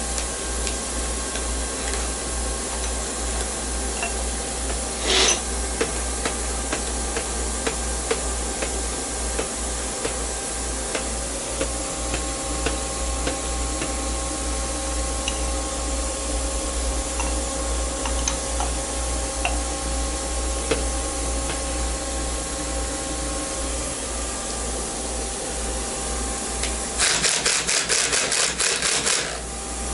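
Machine tool running steadily while cutting metal bar stock, with faint steady tones over a constant mechanical noise. There is one short sharp burst about five seconds in and a quick rattling run of clicks near the end.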